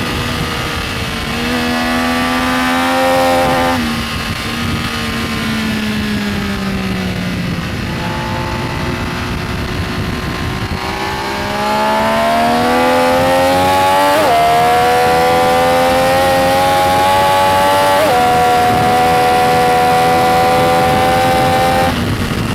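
Benelli Tornado Tre 900's three-cylinder engine heard onboard at speed: it revs up, is shut off about four seconds in and falls away, then pulls hard again from about ten seconds, with two quick upshifts and a steady high note near the end.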